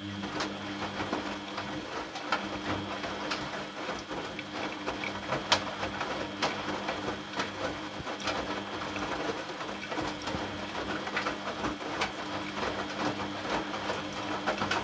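Washing machine running: a steady motor hum with many irregular clicks and ticks on top.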